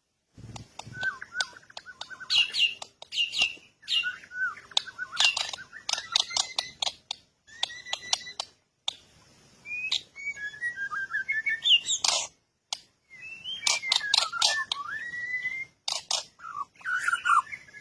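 Birds chirping and calling in quick, wavering phrases, with many sharp clicks among the calls and a few brief pauses.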